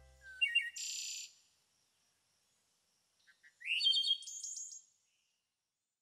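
A small bird chirping in two short, high phrases, each about a second long and about three seconds apart.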